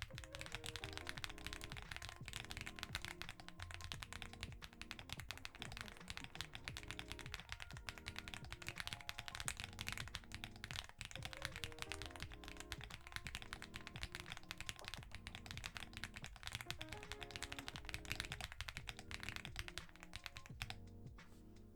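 Typing on a mechanical keyboard fitted with Jerzzi Lotus V2 linear switches in a Weikav Record Alice V2 board: a fast, continuous clatter of keystrokes, heard over background music, with the typing thinning out near the end.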